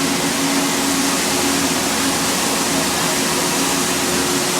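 Amusement ride running: a steady rushing noise with a low mechanical hum.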